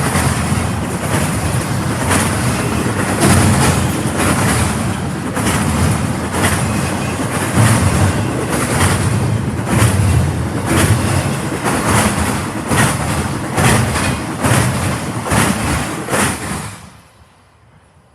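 Train cars rolling past close by, a steady rumble with the wheels clicking sharply over rail joints about once or twice a second; the sound cuts off suddenly near the end.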